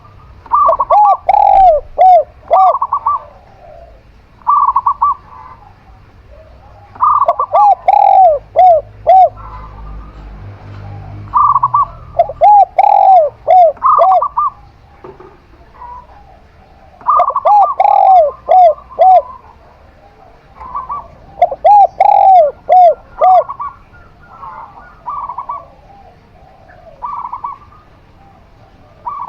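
Zebra dove and spotted dove cooing in turn. There are five loud bouts of calling, each a quick run of rising-and-falling coo notes mixed with shorter, higher notes, and softer coos in between.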